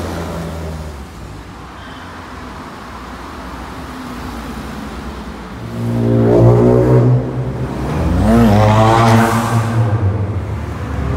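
Performance cars accelerating hard away from standstill. The engine note is quieter in the first half, then about six seconds in a car pulls off loudly, its revs climbing, dropping at a gear change, then climbing again.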